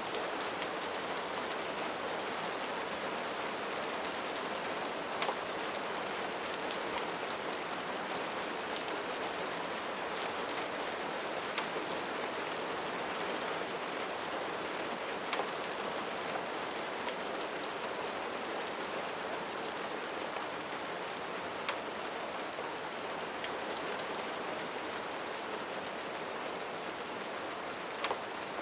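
Steady rain falling, an even hiss, with scattered sharp ticks of drops every few seconds.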